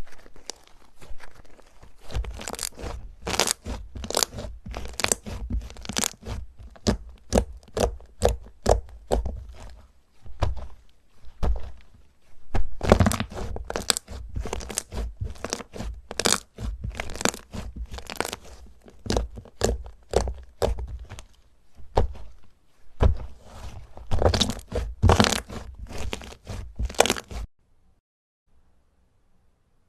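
Slime being squeezed and pressed, giving rapid runs of sharp crackles and crunches, several a second. The crackling stops suddenly near the end.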